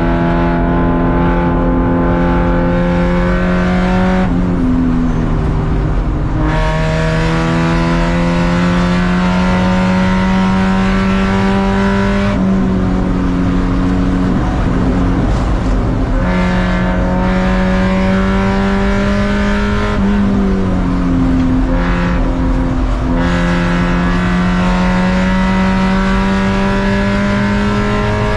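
Race car engine running hard on track: its pitch climbs slowly, then drops or breaks off about every four to eight seconds at gear changes and lifts.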